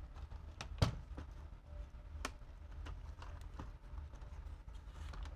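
Scattered plastic clicks and light knocks of a laptop's top cover being unclipped and lifted off, the sharpest click about a second in.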